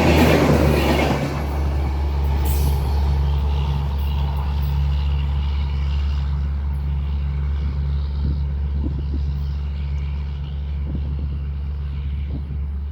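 The rushing noise of a passing train fades out in the first second or so. A steady low engine drone is left, with a few faint knocks near the end.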